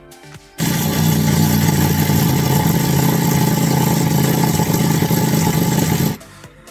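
A loud, steady engine-like mechanical noise that starts suddenly about half a second in and cuts off suddenly near the end.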